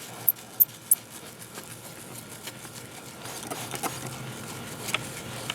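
A spray bottle squirting water three times in quick succession on the plastic headlight lens, followed by a faint, uneven rubbing as the lens is wet-sanded by hand with a 3000 grit sanding pad.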